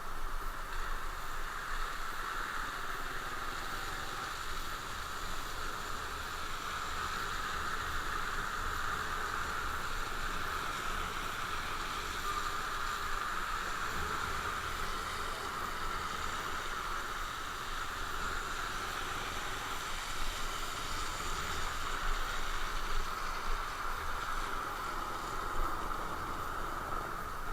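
A motorcycle riding steadily along: constant wind and road rush over a low engine hum, with no sharp events.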